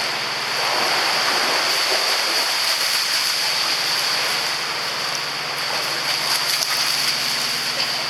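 Steady rush of moving, splashing water in a dog swimming pool, with a faint low hum underneath.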